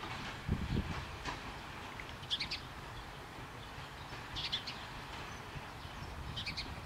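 A songbird chirping in short, high phrases about every two seconds, over the low rumble of a passenger train rolling slowly away on the tracks.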